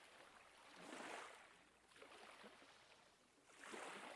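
Faint ocean waves washing in, swelling about a second in and again near the end.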